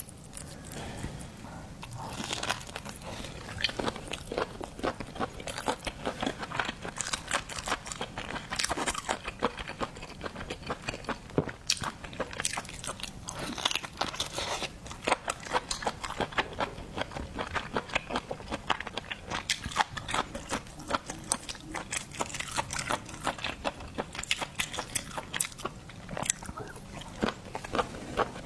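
Close-miked eating of seafood: chewing and biting, with a dense run of quick crunches and clicks.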